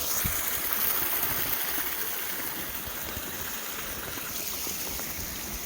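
A small forest stream running, a steady rush of water.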